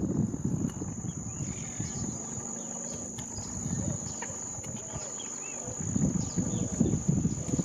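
Wetland ambience: a steady high-pitched insect drone, a few faint short bird calls, and a low, rapid rattling that eases off in the middle and grows louder again near the end.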